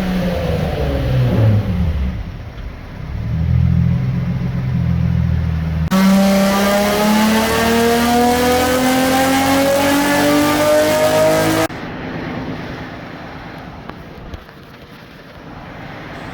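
Infiniti G35's 3.5-litre VQ35DE V6 on E85 with full exhaust, run on a chassis dyno. At first the engine winds down from a run. About six seconds in it goes to wide open throttle for a dyno pull, its pitch climbing steadily for about six seconds before it cuts off sharply. Then the engine and rollers wind down more quietly.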